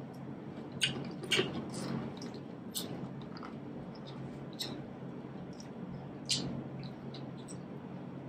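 Close-up eating sounds: wet chewing and lip smacks as corn on the cob and prawns are eaten, with a few sharp smacks spaced a second or two apart over a faint steady low hum.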